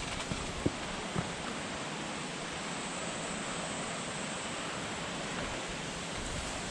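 Mountain stream water rushing over rocks, a steady even noise, with a few faint clicks in the first second or so.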